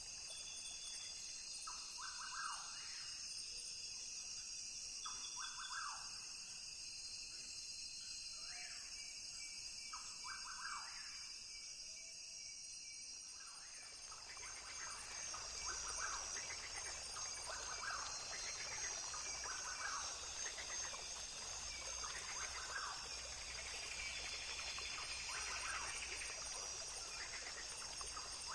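Rainforest ambience: a steady high-pitched insect chorus with bird calls repeating every couple of seconds. About halfway in the sound grows fuller and a low rumble comes in.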